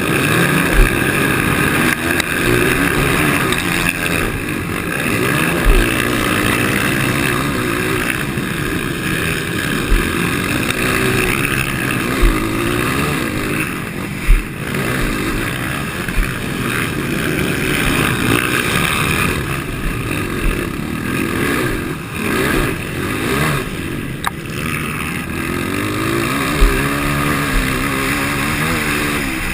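230 cc motocross bike engine with a DORE exhaust header and tip, revving up and down as the throttle is worked. Several short, sharp thumps break through.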